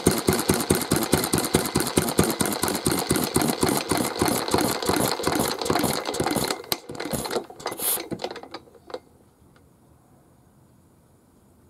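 Mitsubishi J1-type single-cylinder kerosene stationary engine running with a steady beat, then slowing over a few seconds and coasting to a stop about eight to nine seconds in.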